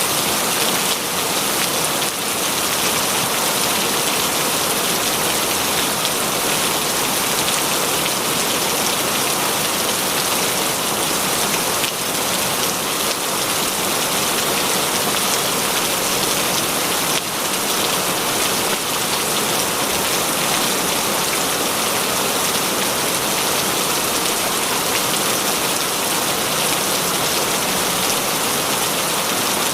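Heavy rain falling steadily, a dense even hiss of drops striking surfaces, with a few faint sharper drop hits.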